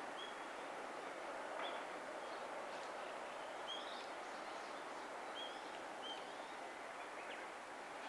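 Small wild birds chirping: several short, high calls scattered a second or two apart over a steady outdoor background hiss.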